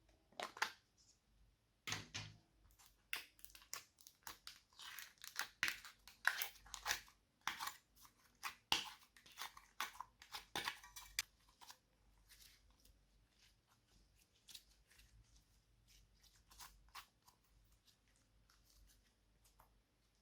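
Slime being worked by hand, giving sticky clicking and crackling, thick and fast for the first half, then sparser and fainter.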